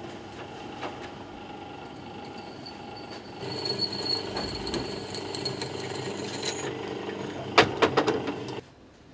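A workshop machine running steadily, getting louder about three seconds in, with a quick cluster of knocks near the end before it cuts off abruptly.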